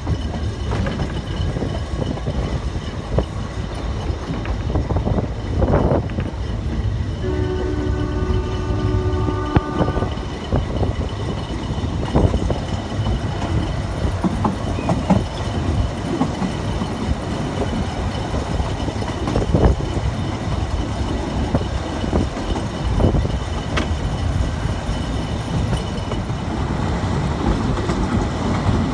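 Narrow-gauge train running, heard from a carriage window: a steady low rumble with scattered wheel clicks over the rail joints. About seven seconds in, the locomotive's whistle sounds for about three seconds.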